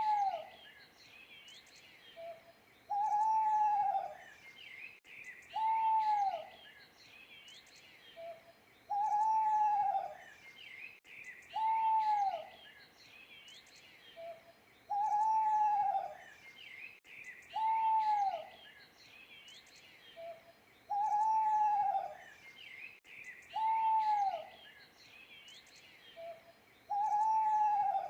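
An owl hooting in a set phrase repeated about every six seconds: a short low note, then a long hoot that arches and drops, then a shorter falling hoot. Small birds chirp faintly behind it.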